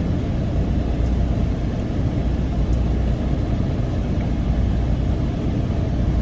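Steady low rumble of a car or truck driving, engine and road noise with no change in pace.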